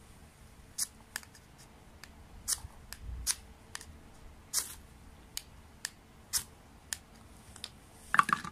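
A knife shaving curls from a stick of wood to make a feather stick: about a dozen short, sharp scraping strokes at uneven intervals, with a louder clatter of knocks near the end.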